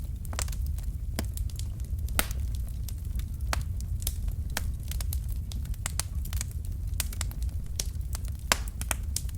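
Wood fire burning in a fireplace: logs crackling with irregular sharp pops, a couple of louder snaps, over a steady low rumble of the flames.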